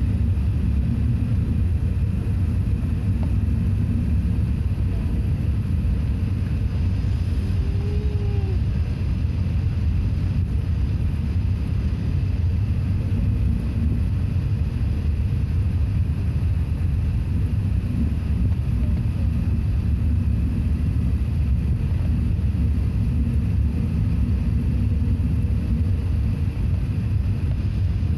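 Airbus A380 airliner cabin noise: a steady low rumble of engines and airflow that holds even throughout.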